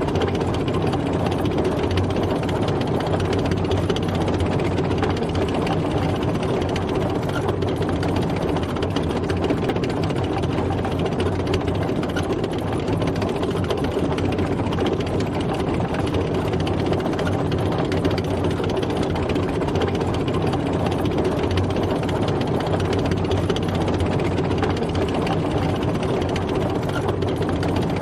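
Tank driving: its heavy engine runs at a steady, unchanging pitch with a constant low hum, with no revving or gear changes.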